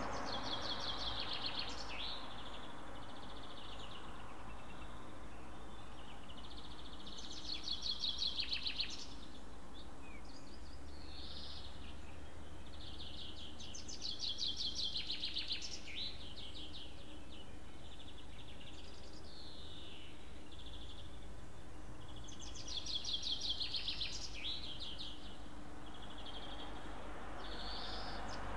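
A songbird singing short trilled phrases, about four of them, repeating roughly every seven seconds, with fainter chirps between. Under it runs a steady low background noise.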